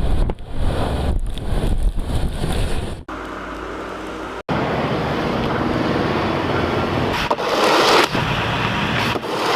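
Gusting wind buffeting the microphone, then, after two abrupt cuts, a steady rushing outdoor noise with vehicles, louder for a moment near the end.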